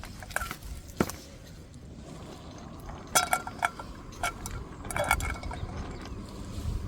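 Camp cooking utensils and cookware clinking and knocking: a single knock, then clusters of short metallic clinks that ring briefly.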